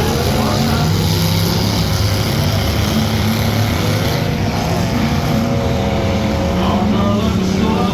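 Demolition derby car engines running loud and steady, rising and falling in pitch as they rev.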